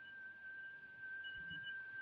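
Quiet pause with a faint, steady high-pitched tone and faint low sounds from about a second and a half in.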